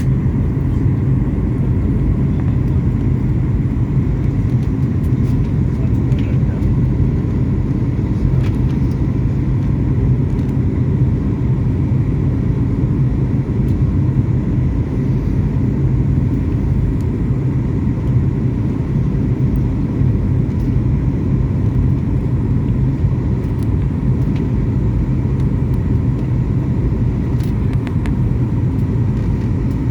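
Airliner cabin noise: a steady low rumble of engines and airflow heard from inside the passenger cabin, with a constant low hum and no change in level.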